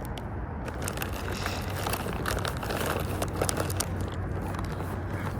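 Scattered small clicks and rustles from fishing tackle being handled close to the microphone, over a faint steady hum.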